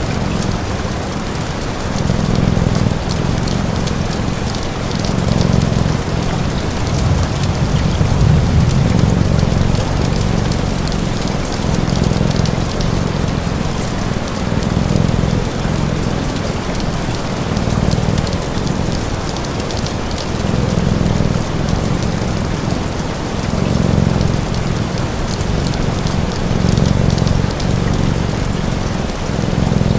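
Steady rain pattering, over a low, rhythmic cat purr that swells and fades every second or two, with light crackles of a wood fire.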